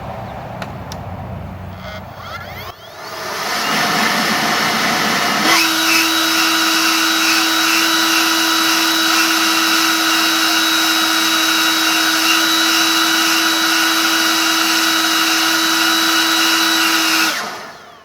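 EGO LB4800 cordless leaf blower with its factory controller spinning up to full speed over a couple of seconds, then running steadily as a loud rush of air with a constant whine. It shuts off near the end, and the sound falls away quickly.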